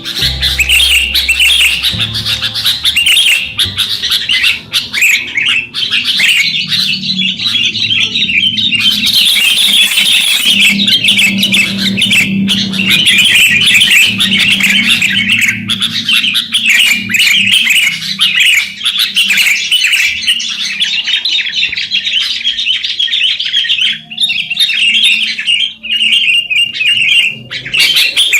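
Sooty-headed bulbuls (kutilang) chirping busily, a dense, unbroken stream of quick, high chirps.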